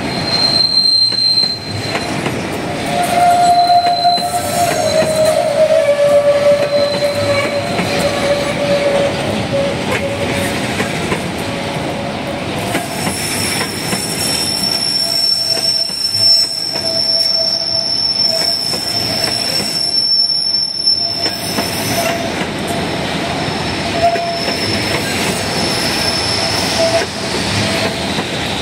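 Freight train boxcars rolling past on curved track, with a steady rumble and clatter. Their steel wheels squeal against the rails in long, thin, high-pitched tones that come and go, the highest one held from about the middle of the passage to near the end.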